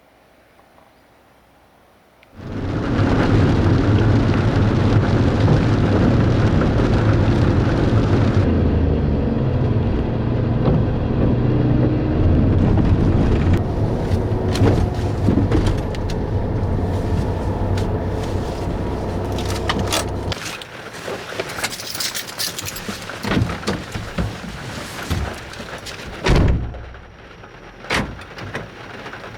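A kei van runs with a steady low rumble from about two seconds in, then cuts off about twenty seconds in. After that come a series of sharp clicks and knocks.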